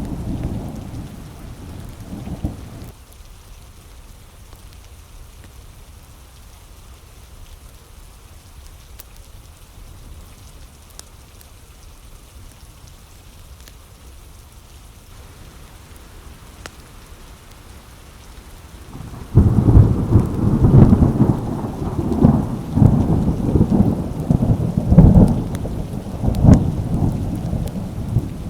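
Steady rain with thunder: a rumble dies away about three seconds in, leaving rain alone, then a loud rolling peal of thunder starts about two-thirds of the way through and rumbles on in repeated swells.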